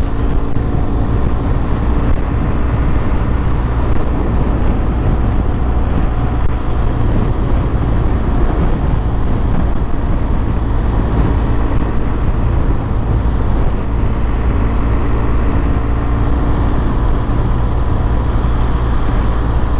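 BMW R1200 GS flat-twin engine running at a steady cruise, mixed with a constant rush of wind and road noise from riding.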